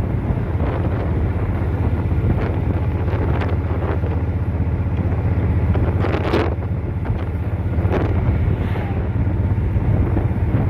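Wind rushing and buffeting over the microphone of a moving motorcycle, over a steady low engine drone, with a few stronger gusts.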